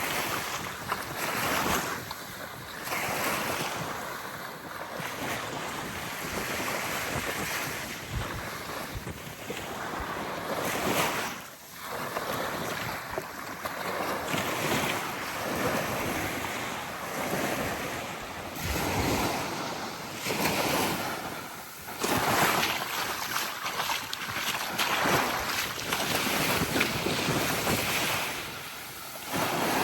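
Small waves lapping and washing on a beach, swelling and ebbing every second or two, with wind buffeting the microphone.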